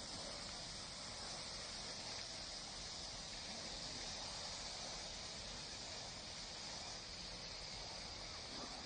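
Steady nature ambience: a faint, even, high-pitched hiss-like chorus that runs on without breaks or distinct events.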